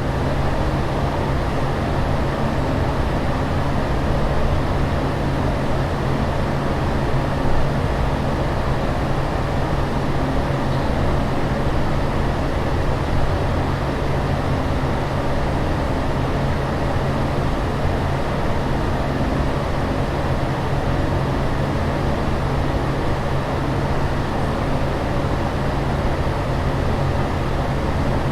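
Steady airliner cabin noise in flight: an even rushing noise weighted to the low end, with a constant low hum underneath and no changes.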